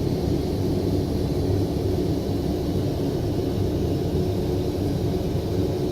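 Steady in-flight cabin noise of a Boeing 787-9: an even, low rumble of the aircraft at cruise.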